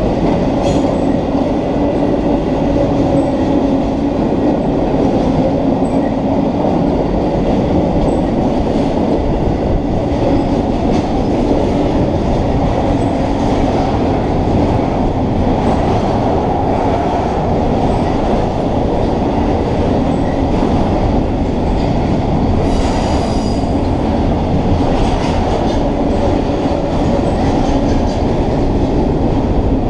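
Double-stack intermodal container cars rolling past at a steady pace: a loud, continuous rumble of steel wheels on rail, with a steady drone. There is a brief hiss about 23 seconds in.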